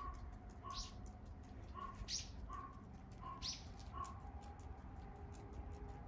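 A songbird calling repeatedly: short low notes alternating with higher, sweeping chirps, about a note every half second, falling silent about four seconds in.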